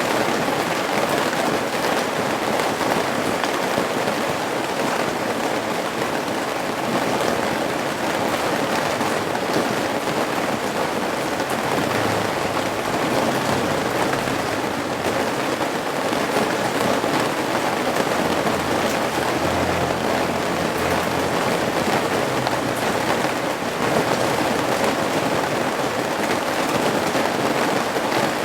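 Steady rain falling on and dripping from the eaves of a roof: an even, dense patter that holds at a constant strength.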